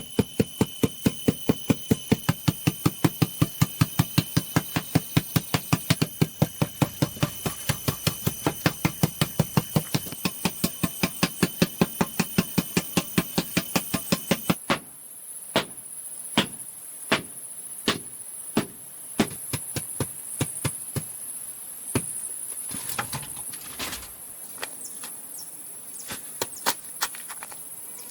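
A fast, even run of hand-tool strikes on bamboo, with insects droning steadily behind. About halfway through it changes abruptly to slower, irregular knocks against a high, steady insect buzz.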